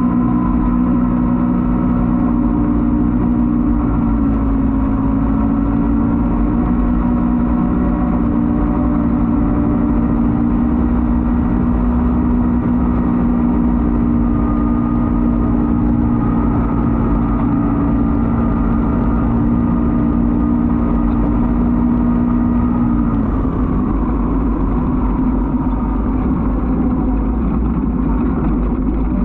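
Off-road race vehicle engine running at a steady, unchanging pitch. About 23 seconds in, the even tone breaks up into a rougher, noisier engine sound.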